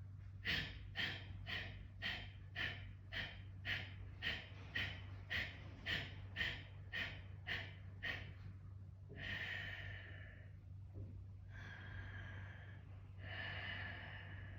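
Kapalabhati yoga breathing: about fifteen short, forceful exhales through the nose, roughly two a second, then three slower, longer breaths through the nose.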